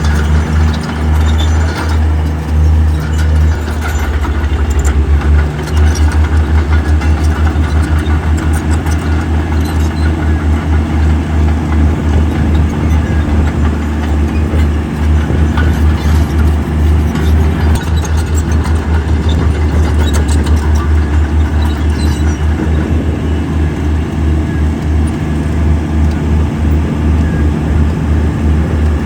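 Heavy diesel engine of earthmoving machinery, a bulldozer or dump truck, running close by with a strong, fast-pulsing low throb, and faint clicks scattered over it.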